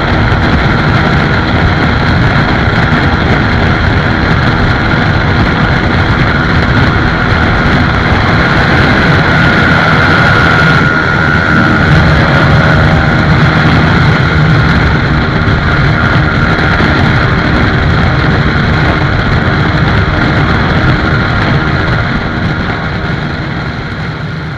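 Motorcycle running steadily at highway speed, engine and road noise loud and continuous, fading out near the end.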